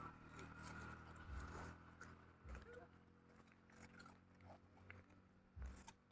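Faint animal sounds: a few short soft calls and scattered clicks over a low steady hum.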